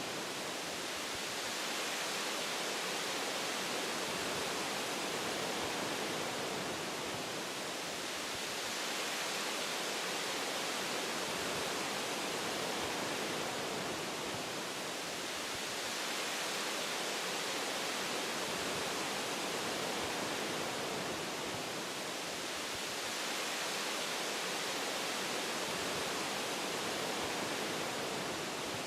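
Wind blowing through tree branches: a steady rushing noise that swells and eases in slow gusts every several seconds.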